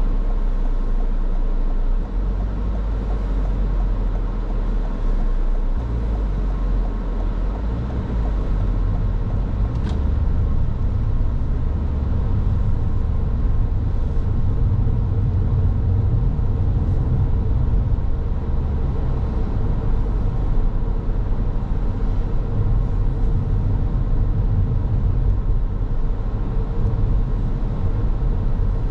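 Car driving along the road: a steady low rumble of tyre and engine noise with no sudden changes.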